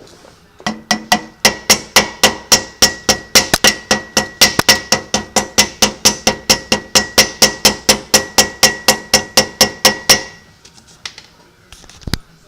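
Sharp metallic ticking from the front of a Mercedes-Benz W124 500E's V8 engine, evenly spaced at about four ticks a second, each briefly ringing, then stopping suddenly with a couple of stray clicks after. It is the abnormal noise being chased, which the owner places at the front of the engine rather than the muffler, and which the video puts down to fuel pulsation.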